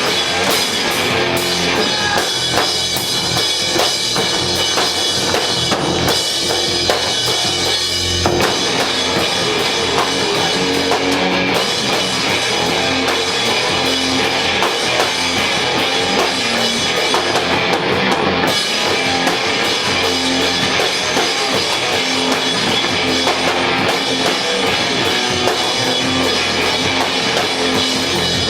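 Live rock band playing an instrumental passage: drum kit and electric guitar going together at full volume, with no vocals.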